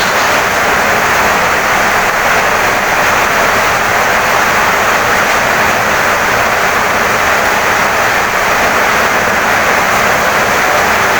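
Heavy rain pouring down steadily on a wooden house, an even, unbroken hiss.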